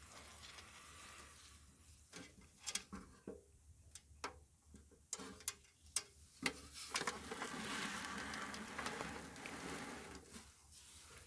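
Scattered light clicks and knocks of parts and tools being handled, a few of them in quick succession, then a few seconds of rubbing, scraping noise that fades near the end.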